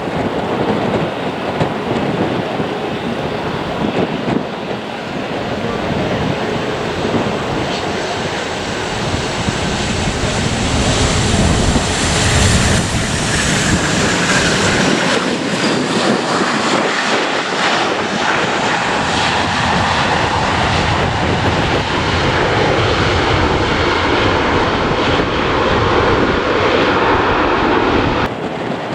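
Jet airliner passing, its engines building in loudness with a high whine that falls in pitch about twelve seconds in, then a steady loud rush of jet noise that cuts off suddenly near the end. Wind on the microphone throughout.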